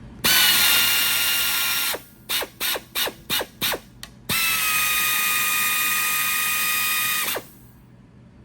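Flexarm power tapping arm's motor driving a small tap. It runs with a steady whine and hiss for about two seconds, gives six short bursts, then runs again for about three seconds at a slightly lower pitch before stopping.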